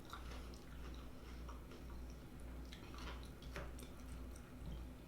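A person chewing food quietly close to the microphone, with scattered soft mouth clicks and smacks.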